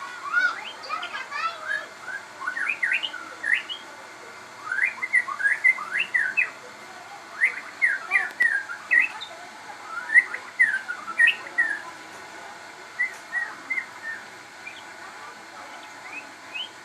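A crossbred murai (white-rumped shama type songbird) singing loudly and continuously, a fast run of short sweeping whistles and chirps that thins to a few scattered notes near the end.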